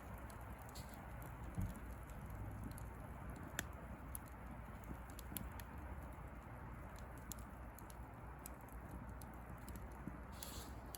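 Bonfire of dry pruned rose branches and twigs crackling: irregular sharp pops over a steady low hiss, with a short hiss near the end.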